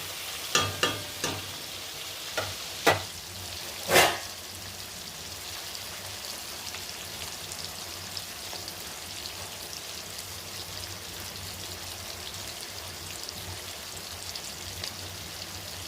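Paneer cubes frying lightly in hot ghee and oil in a kadai: a utensil knocks against the pan a few times in the first four seconds, the loudest just before the sizzle settles. After that comes a steady sizzle with light crackling.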